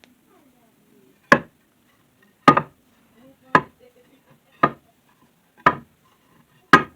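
Wooden cutting-board strips turned up and set down one at a time on the workbench: a sharp wooden knock about once a second, six in all.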